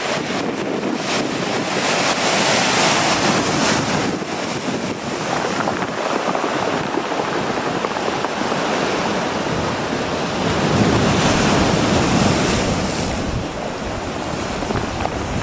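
Strong coastal wind buffeting the microphone over the wash of ocean surf, swelling in two gusts, about two seconds in and again around ten seconds in.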